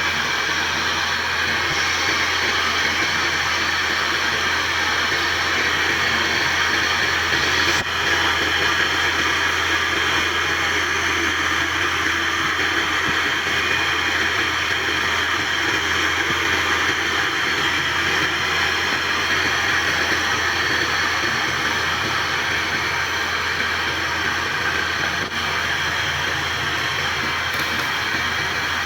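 Wood lathe running steadily, a continuous mechanical whirr over a constant low hum.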